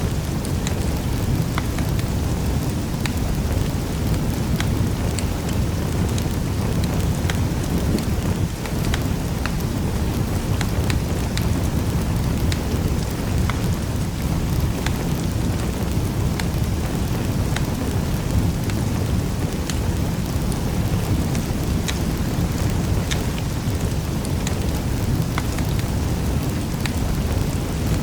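Wood fire crackling in a fireplace: a steady low rumble of burning with many small, irregular pops and snaps.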